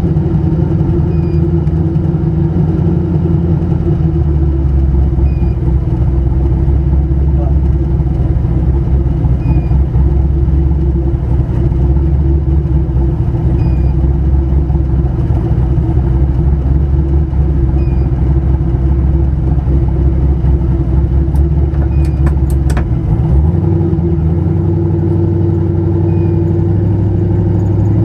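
Turbocharged car engine running under high load off boost, with misfires still present. A steady drone whose low tones shift about 23 seconds in, with a few clicks just before.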